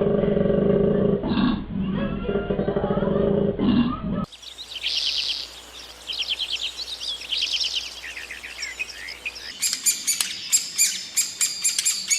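Animal sound clips cut together: for about four seconds, low, pitched animal calls. Then, after an abrupt cut, a songbird's song in fast trills. Then, after another cut, rapid high bird chirps.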